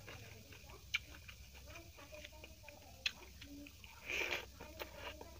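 Close-miked eating sounds: chewing with small wet mouth clicks and smacks, and a few sharp clicks. A louder, noisy mouthful sound comes about four seconds in as a handful of rice goes into the mouth.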